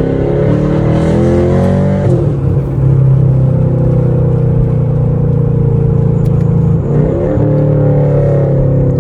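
Straight-piped 2017 Camaro SS's 6.2-litre V8 running under way. Its pitch climbs over the first two seconds, drops back and holds steady, then climbs again briefly about seven seconds in.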